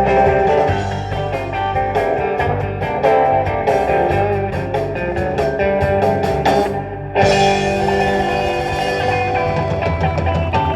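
Live rock-and-roll band playing an instrumental passage led by electric guitar, with bass and drums. The band breaks off briefly about seven seconds in, then comes back with a chord left ringing.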